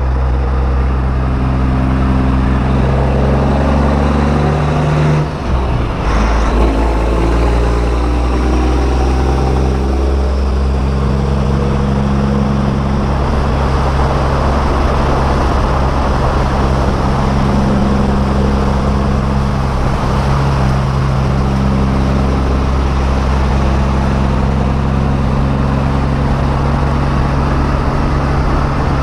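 Semi-truck diesel engine running, its pitch stepping up and down a few times, with a brief break about five seconds in.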